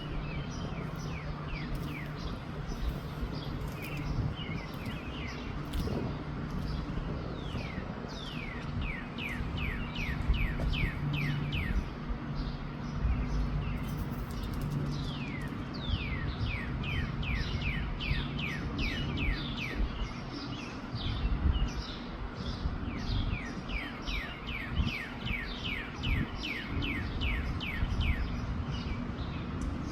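A songbird calling in bouts of quick, repeated downward-sweeping notes, about three a second, in three runs. Gusty wind rumble on the microphone runs underneath.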